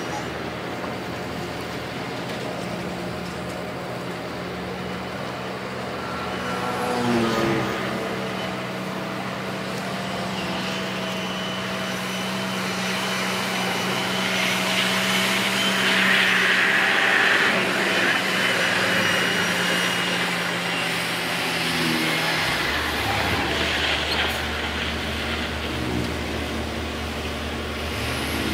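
Heavy diesel earthmoving machinery running, its engine note shifting about seven seconds in and changing again a little over twenty seconds in. A hiss swells through the middle of the stretch.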